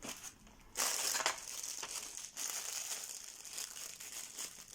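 Crinkling and rustling of packaging being handled, starting suddenly about a second in and going on in uneven rustles.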